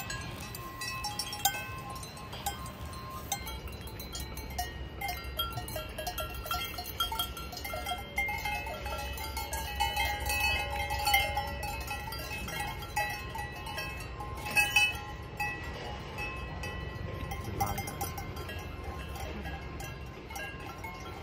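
Livestock bells clinking and clanging irregularly as animals graze, several bells at different pitches, with a few louder clangs, over a low steady rumble.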